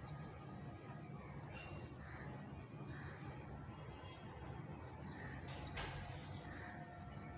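Faint, repeated short high chirps, about one a second, from a small bird calling steadily in the background, over a low outdoor rumble. A single sharp click sounds near the end.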